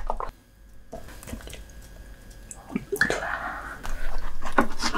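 Close-miked wet eating sounds of a soy-sauce-marinated lobster meal: soft chewing and squishing with scattered sharp clicks, growing louder from about three seconds in.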